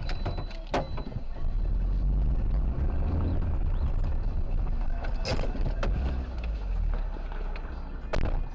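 Road and engine rumble of a moving car, picked up by a dash cam, with several sharp knocks: two near the start, two around the middle and one near the end.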